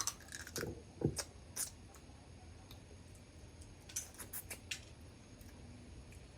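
Mud crab shell being cracked and picked apart while eating: scattered sharp clicks and cracks, with a few strokes about a second in and a quick cluster around four seconds in.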